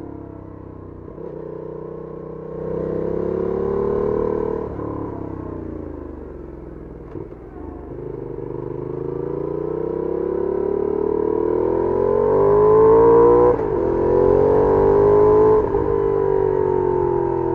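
Benelli Leoncino 800's parallel-twin engine through its stock exhaust, heard from on board while riding. The revs rise briefly, fall away, then climb in a long pull with two quick breaks in the last few seconds, typical of gear changes, before easing off.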